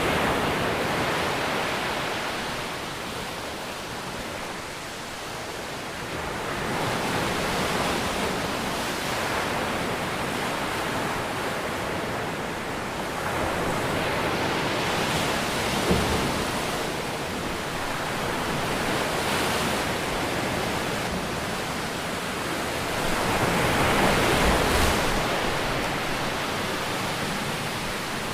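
Ocean surf breaking and washing ashore, a steady rush that swells and eases about every eight seconds. A brief knock sounds about halfway through.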